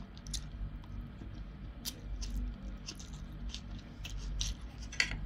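Close-miked chewing of a mouthful of rice with fermented mustard greens: soft, wet mouth clicks and smacks at irregular moments, with a sharper click near the end.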